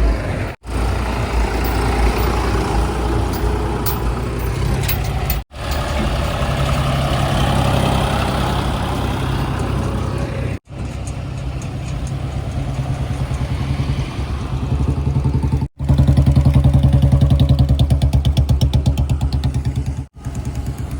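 Diesel engines of heavy earthmoving vehicles running and revving. The sound cuts out abruptly for an instant about every five seconds, and there is a louder stretch with an even throb near the end.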